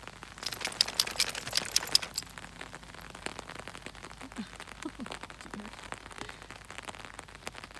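Rain pattering on an umbrella, a dense run of sharp drop hits for the first two seconds, then lighter, sparser drops.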